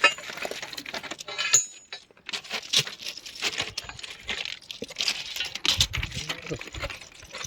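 Steel track tools clinking and scraping against rail, sleeper and stone ballast as a sleeper is lifted and packed: a dense, irregular metallic clatter, with a short ringing metal note about a second and a half in.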